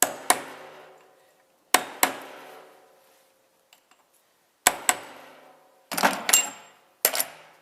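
Sharp metal-on-metal clanks as tools or gearbox parts are knocked together. They come in quick pairs, about five pairs in all, and each rings on briefly.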